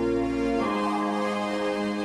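Background music: soft keyboard chords held and changing about half a second in.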